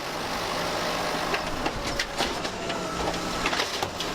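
Garbage truck engine running steadily, with a string of sharp knocks and clatters over it.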